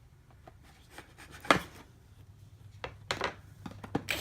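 Cardboard box and packaging being handled while it is opened: scattered light clicks and rubbing, with a sharper click about a second and a half in and a few more near the end.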